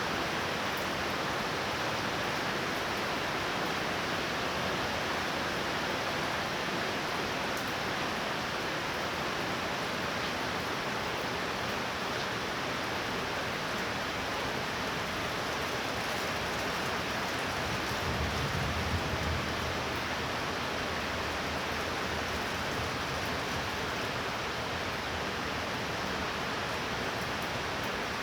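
Steady downpour of rain, an even hiss of falling water throughout. About two-thirds of the way in there is a brief low rumble.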